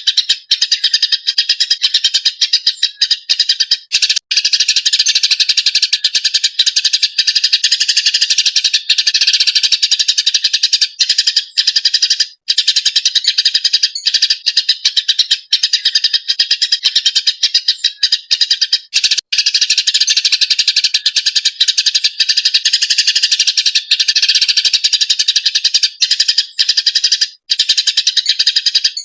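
Eurasian tree sparrow (burung gereja) in an agitated, non-stop chirping bout: a dense run of rapid, high, harsh chirps, broken by a few short pauses.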